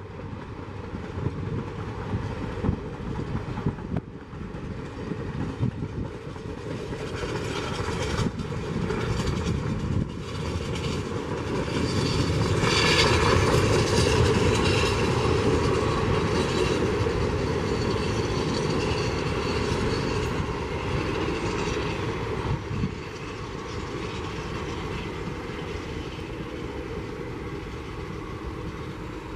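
Passenger train coaches rolling past on the rails, with wheels clicking over the rail joints. The train grows louder to a peak about halfway through, then slowly fades as it moves away.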